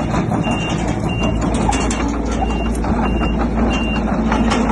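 A heavy construction machine reversing: its diesel engine runs steadily while its reverse alarm beeps about every half second, over repeated metallic clanking.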